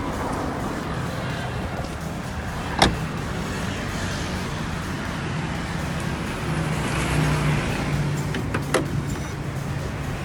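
Car engine running steadily at idle, with two sharp clicks, about 3 seconds in and near the end.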